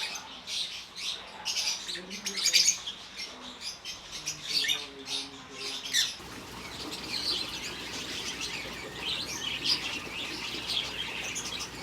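A flock of African lovebirds chattering, with many rapid, high-pitched chirps overlapping; the chatter becomes denser and more even about halfway through.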